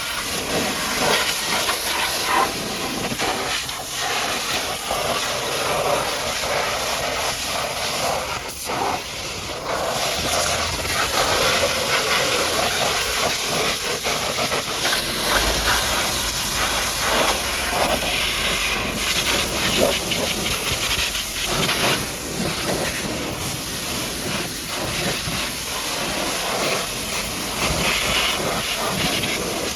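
High-pressure washer jet spraying water against a muddy truck: a steady hissing spray that surges and dips as the jet moves.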